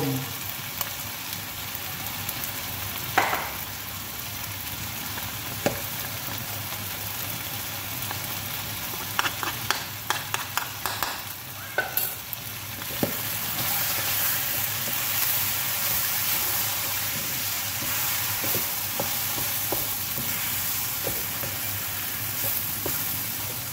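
Beef pieces coated in curry powder sizzling in a frying pan, with a wooden spatula stirring and knocking against the pan now and then. The sizzle gets a little louder about halfway through.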